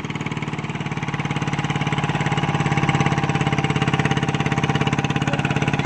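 Single-cylinder diesel engine of an E-taen farm truck chugging in low gear under a heavy sugarcane load. Its rapid even beat grows louder over the first couple of seconds as it works harder, then holds steady.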